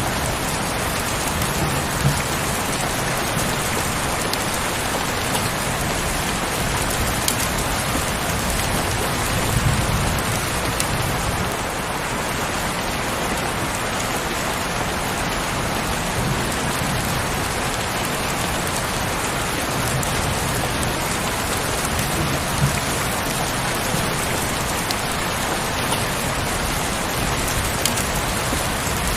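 Heavy rain falling steadily, an even wash of drops with a few soft low thuds scattered through it.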